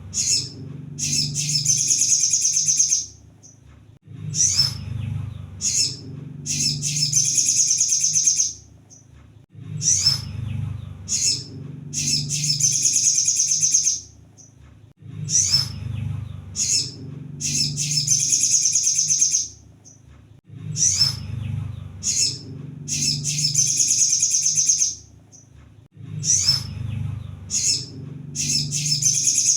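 Sunbird (kolibri sogon) song repeating: each phrase is a few short, high chirps followed by a rapid trill of about two seconds, recurring about every five to six seconds.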